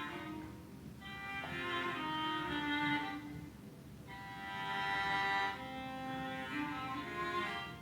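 Instrumental music: a violin playing slow melodic phrases that swell and fade every three seconds or so, with lower bowed strings beneath.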